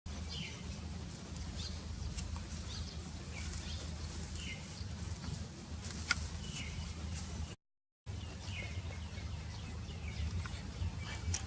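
Outdoor ambience of small birds chirping, with short repeated chirps over a steady low rumble. There is a single sharp click about six seconds in, and the sound cuts out briefly near eight seconds.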